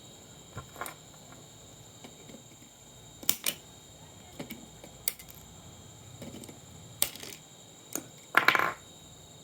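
Irregular clicks, taps and knocks of small hard parts being handled during a monitor teardown, with a longer rattle near the end. A faint steady high whine runs underneath.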